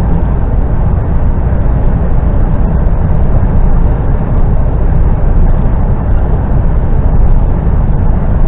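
Articulated lorry's engine and road noise heard from inside the cab while driving along: a loud, steady low drone.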